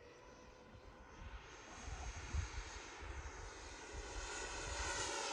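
Radio-controlled model jet in flight, its motor whining steadily and growing louder as it approaches. Its landing gear has come down and will not retract, which makes it fly badly.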